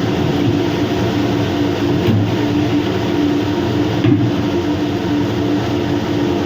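Steady mechanical hum and rumble with a low droning tone, the constant background of machinery running in the kitchen. Faint light knocks come about two and four seconds in.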